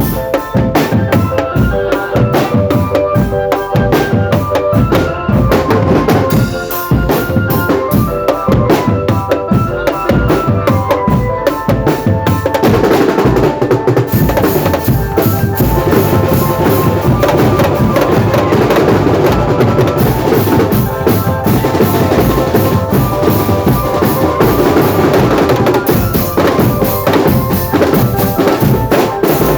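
Indonesian marching drum band playing: bass and snare drums beat a steady rhythm under a pitched melody line.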